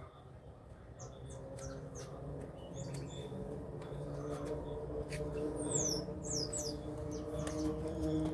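Small birds chirping: short, high, downward-sweeping chirps, coming thickest around the middle, over a steady low hum that slowly grows louder.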